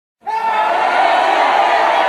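Loud crowd of many voices shouting together, cutting in suddenly about a quarter second in and holding steady.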